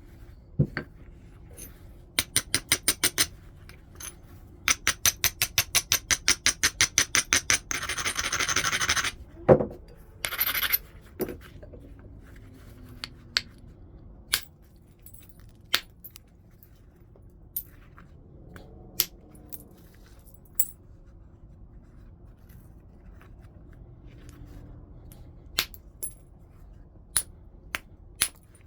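Flintknapping on stone: two quick runs of sharp stone-on-stone strokes at about six a second, then a dense scraping stretch and one heavier knock about nine seconds in. After that come single sharp clicks every second or two.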